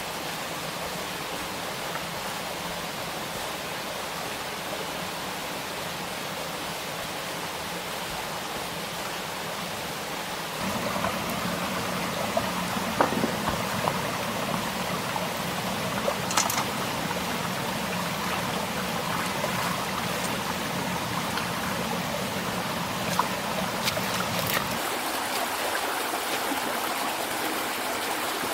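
Stream water flowing, a steady rush that gets louder about a third of the way in, with a few faint clicks.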